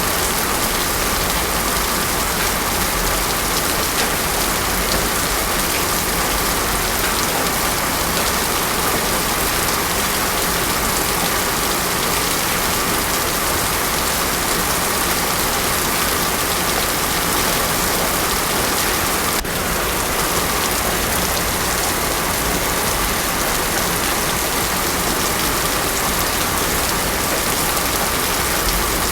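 Heavy rain falling steadily on a hard surface, a dense even hiss with no thunder.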